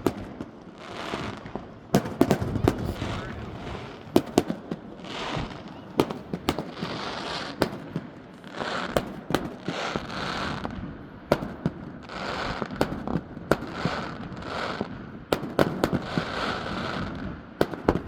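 Fireworks display: a rapid, uneven series of sharp bangs from bursting shells, with a hissing crackle between them.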